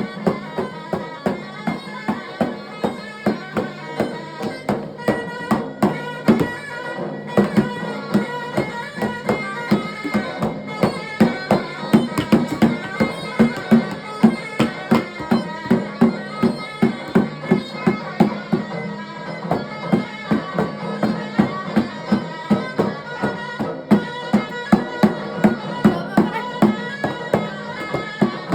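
Davul and zurna playing instrumental Turkish folk dance music: a zurna melody over a steady davul beat.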